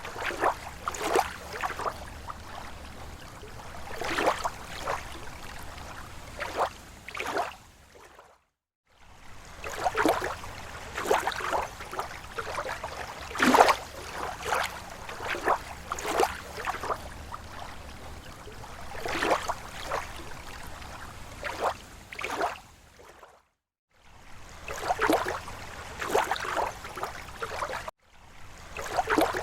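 Small waves lapping against a lake shore: irregular soft splashes and slaps, one every half second to a second, over a low steady wash. The sound cuts out completely for under a second three times, about a third of the way in and twice near the end.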